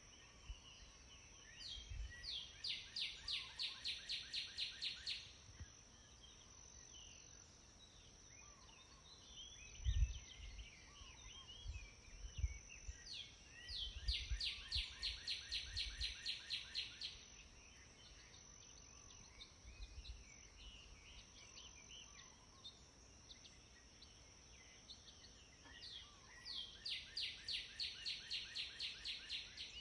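A songbird singing a rapid trilled phrase of about five notes a second, lasting about three seconds and repeated three times, with softer scattered chirps between phrases over a steady high-pitched hum of background ambience. A single dull low thump comes about a third of the way through.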